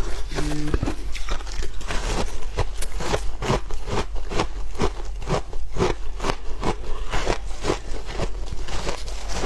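Shaved ice being bitten and chewed, a steady run of crisp crunches at about three a second.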